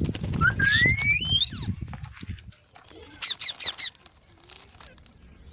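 Pet green parrot calling: a rising whistle early on, then a quick run of four shrill, sharp calls a little after the middle. A low rustling rumble fills the first two and a half seconds, then stops.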